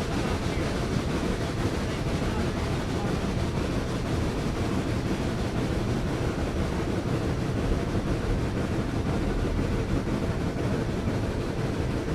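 Steady rumble and rush of a moving train heard from aboard, with wind noise and no distinct beat.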